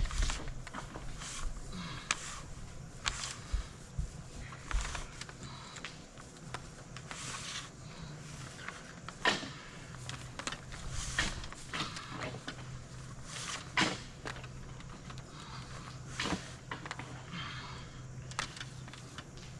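Hands working a bundle of electrical wire and conduit: irregular sharp clicks, knocks and short rustles, over a steady low hum.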